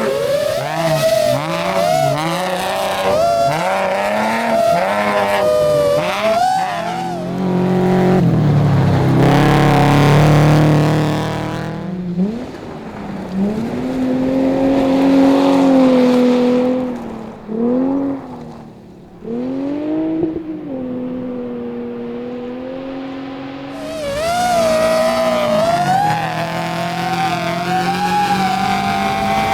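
Rally car engines at hard throttle, revs climbing and dropping through gear changes and lifts, with gravel and tyre noise. The sound changes character several times: a deeper, louder engine stretch a few seconds in, a muffled stretch with pitch swoops in the middle, then a bright high-revving engine again near the end.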